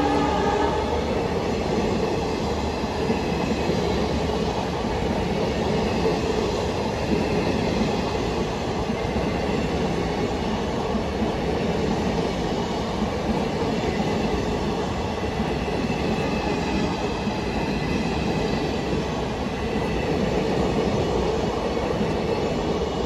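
Passenger train coaches rolling past at speed: a steady, loud rumble of wheels on the rails that holds level as the rake goes by.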